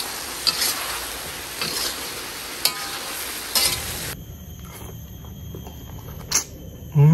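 Chicken pieces and potato wedges sizzling as they are stir-fried in a wok, with a spatula scraping the pan a few times. The sizzling stops about four seconds in, leaving a quieter background.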